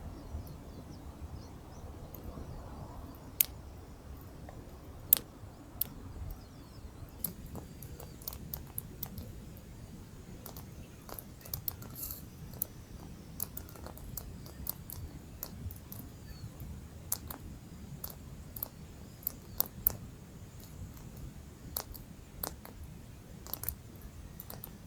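Wood campfire crackling, with irregular sharp pops and snaps, a few of them loud, over a low steady rumble.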